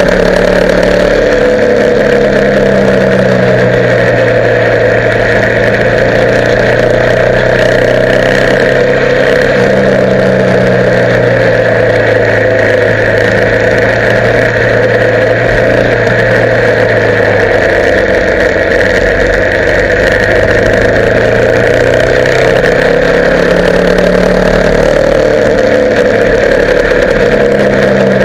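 Motorcycle engine running steadily at riding speed, its pitch drifting slowly up and down, under a loud, constant rush of wind and road noise.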